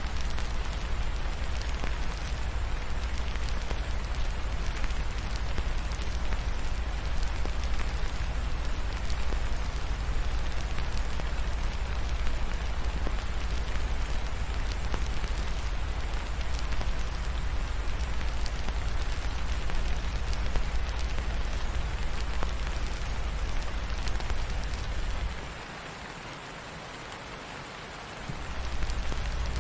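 Steady rain mixed with a crackling fireplace, full of fine ticks over a deep low rumble. Near the end the rumble and much of the loudness drop away for about three seconds, then come back.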